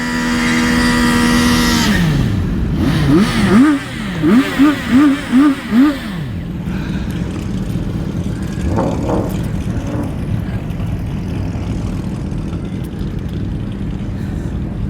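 A car engine held at high, steady revs, then dropping off, followed by about five quick, sharp throttle blips that rise and fall. After that it settles to a steady, lower running note.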